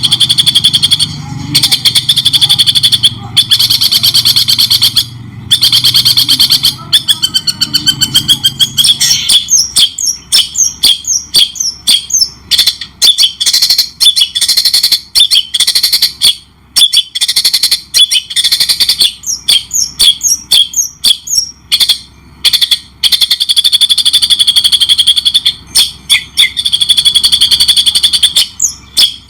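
White-rumped shama singing loudly: a fast, buzzy rattling trill for the first several seconds, then a string of short separate whistled and chirping notes sweeping up and down, then the buzzy trill again for the last few seconds.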